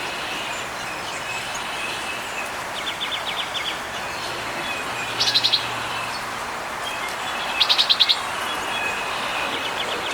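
Small songbird singing short rapid trills, three of them a couple of seconds apart, the first fainter, with faint chirps from other birds behind.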